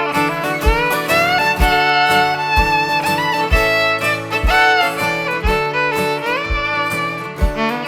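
Instrumental break of a live folk song: a fiddle plays the melody with sliding notes over held accompanying chords and a low beat about once a second.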